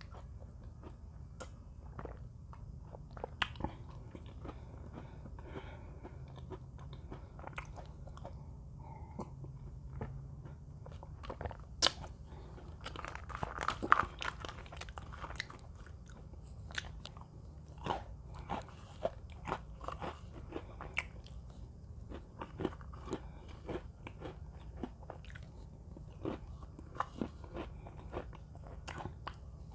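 Close-up crunching and chewing of Mini Oreo cookies: many small irregular crisp crunches, with a louder cluster about halfway through, over a steady low hum.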